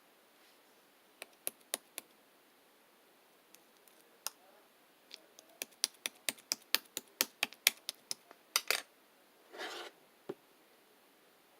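A series of small, sharp clicks and taps: a few scattered at first, then a fast irregular run of about twenty over some four seconds. They are followed by a short scraping rustle and one last click.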